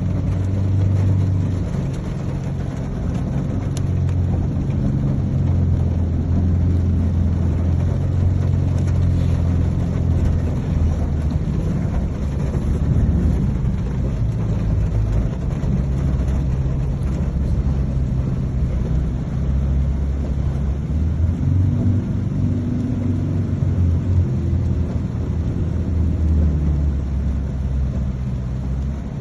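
Motor vehicle's engine running as it drives, a continuous low hum that shifts up and down in pitch.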